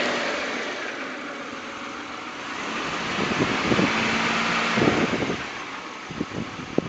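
2003 Chevrolet Impala's 3.4-litre V6 running, carrying a hard-to-notice engine noise that the worn, high-mileage engine makes and the owner cannot identify. The sound swells in uneven bursts about three to five seconds in, and a few sharp clicks come near the end.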